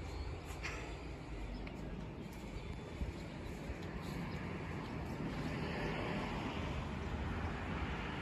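Distant jet airliner noise from an Airbus A330-300 with Rolls-Royce Trent 700 engines on approach: a steady low rumble and hiss that swells slightly about five seconds in as the aircraft draws nearer.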